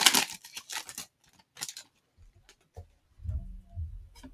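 Trading cards and their pack wrapper being handled: a burst of crinkling in the first second, then sparse light clicks of cards being flipped, with a few soft low thumps about three seconds in.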